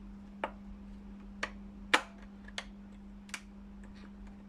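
Five sharp clicks and taps of a screwdriver and the steam iron's plastic casing and small parts being handled during disassembly, the loudest about two seconds in, over a steady low hum.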